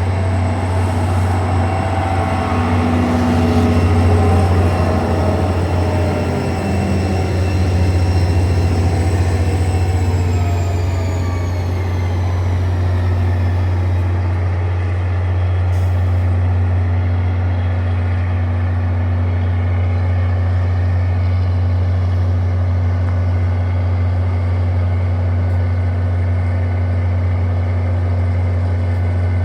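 A passenger train slowing to a stop: several whining tones fall steadily in pitch about ten to fourteen seconds in, over a steady low hum. It then stands with a constant hum and whine.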